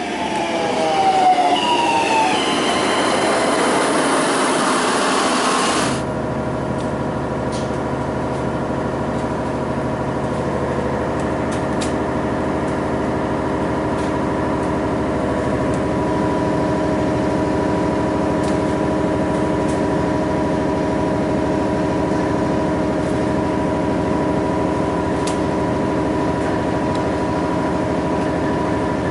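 An Adelaide Metro diesel railcar pulling in alongside, with a falling whine as it slows. About six seconds in, this cuts abruptly to the steady drone of a diesel railcar's engine heard from inside the carriage, with a few faint clicks.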